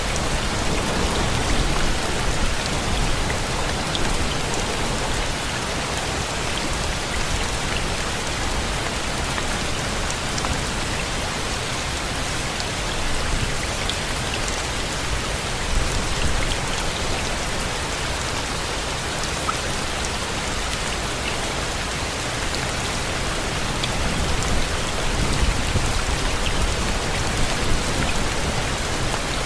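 Rain falling steadily: an even, dense hiss with scattered individual drops ticking through it.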